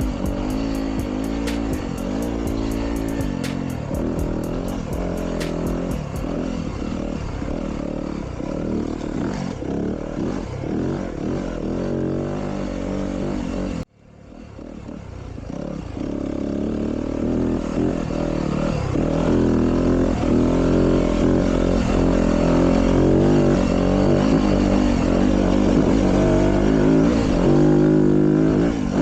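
Dirt bike engine revving up and down as it is ridden. About halfway through the sound cuts off suddenly, fades back in, and is louder for the rest.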